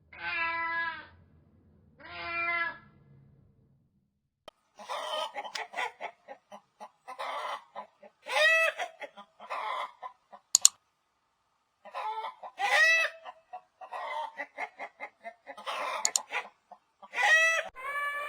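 A cat meows twice at the start. After a short pause, chickens cluck in quick runs, broken by several louder drawn-out squawks.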